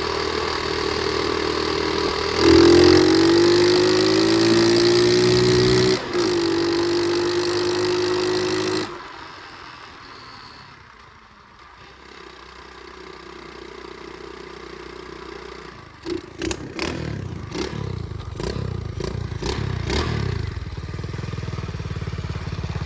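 Pit bike engine under way: its pitch rises about two seconds in and holds steady, then cuts off abruptly near the middle. After a quieter stretch it returns faintly with rattling and clattering near the end.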